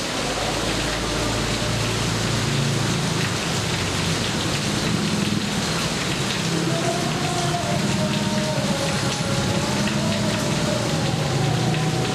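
Steady heavy rain falling, with a low wavering hum underneath.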